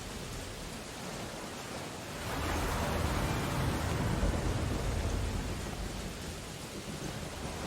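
Steady rain on window glass mixed with a stormy ocean's surf. About two seconds in, a deeper, louder rush swells up and eases off over the next three seconds, like a wave breaking.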